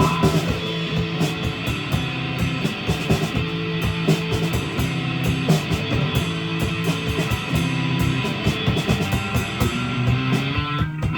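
Live rock band playing: electric guitar, bass and drum kit, with the drums dropping out just before the end.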